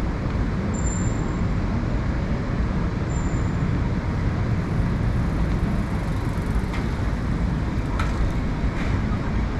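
Street ambience dominated by a steady low rumble of traffic, with two brief high-pitched squeaks early on and a few faint clicks near the end.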